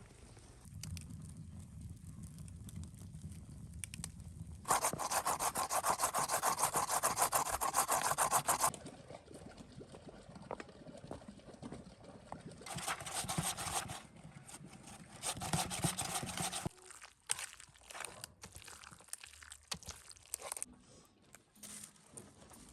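Rapid rasping, scraping strokes: a loud stretch of about four seconds about a fifth of the way in, and a shorter one a few seconds later.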